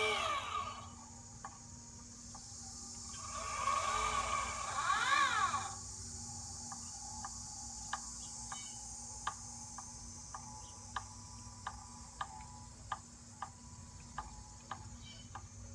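Celestron Advanced VX mount's motors whining as it slews, the pitch rising then falling, once ending just after the start and again about three to six seconds in. After that comes a faint, regular knocking or clicking from the mount, about one click every 0.7 seconds. The owner calls it a strange knocking and does not yet know its cause.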